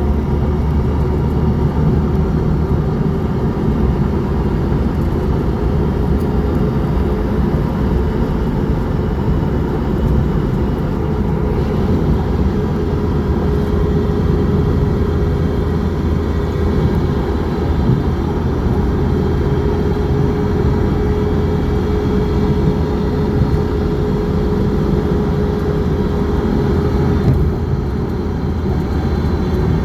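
Steady low rumble of a moving vehicle, with a faint constant hum and no change in level.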